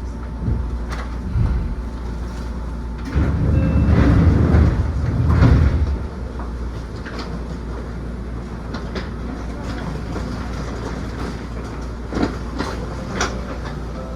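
Onboard running sound of a Seibu New 2000 series electric train in motion: a steady low rumble with scattered sharp clicks of the wheels over rail joints, growing louder and heavier for a few seconds about three seconds in.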